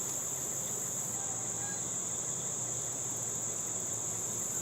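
A steady, high-pitched insect chorus of crickets, over a low hum of honeybees buzzing around the opened hive.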